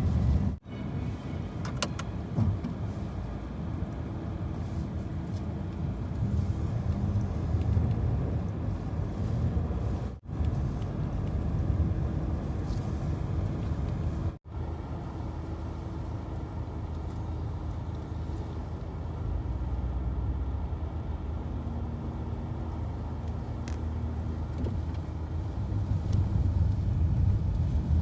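Steady low rumble of a car driving, with no speech, broken three times by a split-second dropout where the recording is cut.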